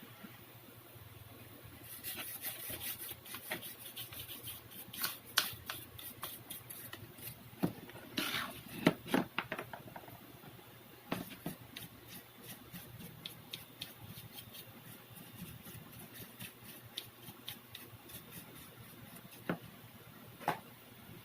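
Irregular small clicks, taps and scrapes of hand work on the parts, with a louder cluster of knocks about eight to nine seconds in and a couple of sharp clicks near the end.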